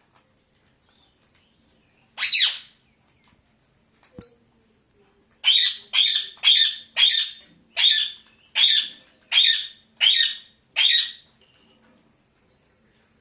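A pet parakeet squawking: one harsh call, then a run of about nine loud, harsh squawks in quick succession, roughly two a second. A short click comes between them.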